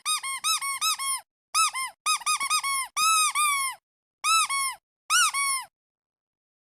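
Squeaky duck toy squeezed over and over in quick runs, each squeak rising then falling in pitch. The squeaks come in several bursts of a few at a time and stop about a second before the end.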